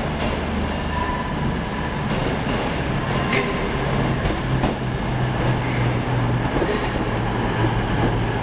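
CrossCountry Voyager diesel multiple unit drawing into the platform: a steady low hum from its underfloor diesel engines, with a few clicks from the wheels on the rails, growing slightly louder as it comes alongside.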